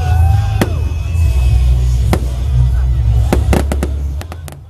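Fireworks going off: single sharp bangs about half a second and two seconds in, then a quick run of bangs and crackles near the end. Music with a heavy bass plays throughout.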